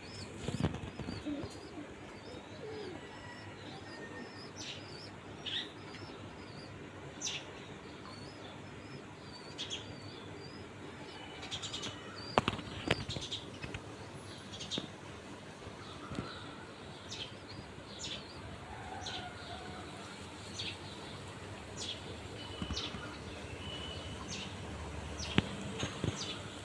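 Bulbuls giving short, high chirps, scattered every second or two, with two louder sharp knocks, one near the middle and one near the end.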